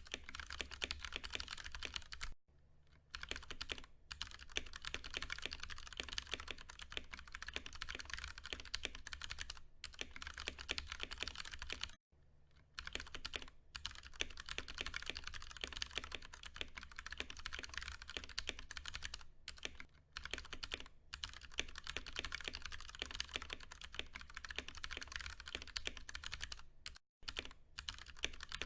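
Continuous fast typing on a Ducky One 2 Mini mechanical keyboard with tactile, non-clicky Cherry MX Brown switches: a dense patter of keystrokes, broken by brief pauses three times.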